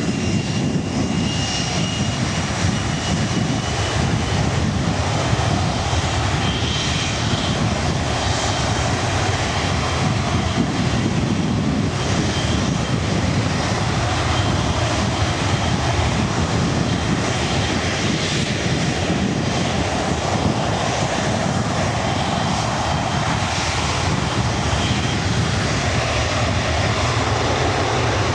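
Three-engine Boeing 727-200 jet running at takeoff power: a loud, steady rumble with a thin high whine that edges up in pitch at first and then holds.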